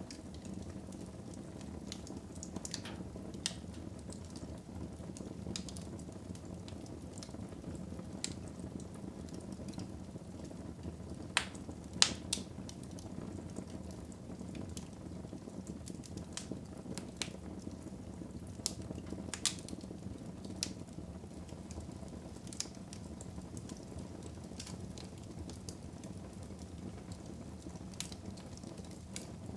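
Wood fire burning in a fireplace: a steady low rumble with scattered sharp crackles and pops, the two loudest a little before halfway.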